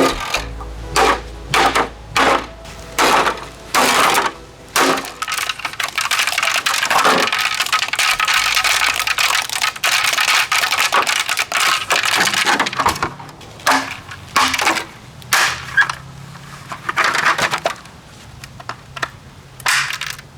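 A Kaz evaporative humidifier's plastic housing being smashed. At first come separate sharp hits about once a second. They run together into continuous cracking and crunching for several seconds in the middle, then separate hits return near the end.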